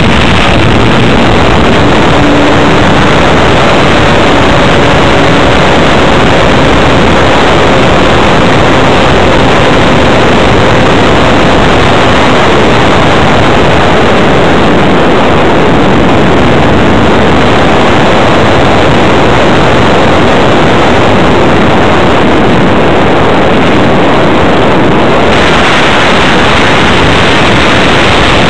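Electric motor and propeller of a Multiplex Blizzard hotliner RC plane, with rushing airflow, heard through its onboard keychain camera's microphone as a steady, overloaded, distorted noise. The sound grows brighter about 25 seconds in.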